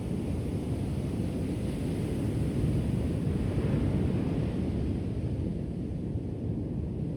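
Ocean surf washing onto a shore: a steady wash of waves that swells about two to four seconds in as a wave breaks, then eases off.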